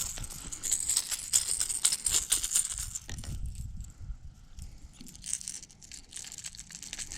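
Irregular crackling clicks and rustling as a hooked bass is reeled in and landed on rod and reel. The clicks are busiest in the first few seconds, then thin out into quieter, intermittent crackle.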